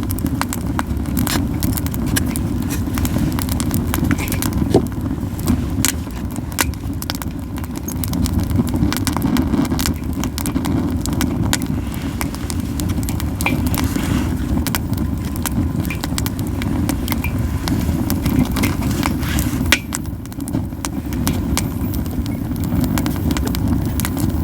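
Japanese yew wood burning in a campfire, crackling with frequent irregular sharp pops over a steady low rumble.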